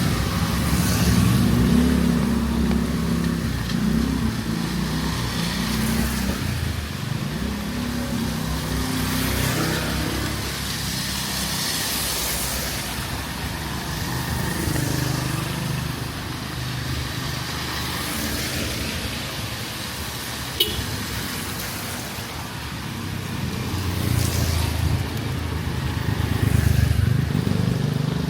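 Street traffic: motor vehicle engines running and passing close by, each pass swelling and fading with a hiss, heaviest near the start and again near the end. A single sharp click about twenty seconds in.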